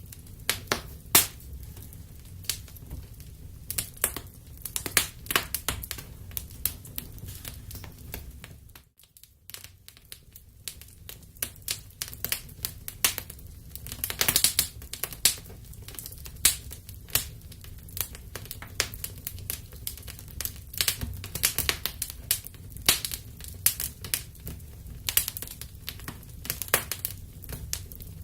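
Wood fire crackling in a fireplace: irregular sharp pops and snaps over a steady low rumble. The sound dips almost to silence for a moment about nine seconds in, then the crackling resumes.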